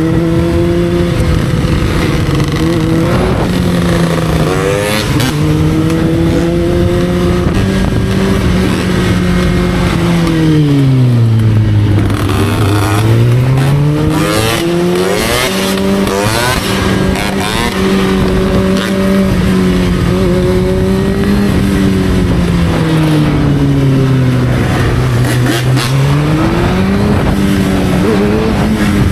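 Motorcycle engine running under way at a steady pitch; twice the revs fall away as the bike slows and then climb back as it accelerates. A cluster of sharp cracks comes around the middle.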